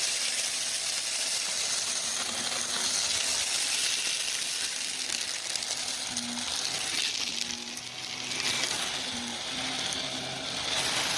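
Shark Navigator upright vacuum running with its brush roll on: a steady rush of suction with a dense crackle of small clicks as crunchy debris is picked up and rattles through it.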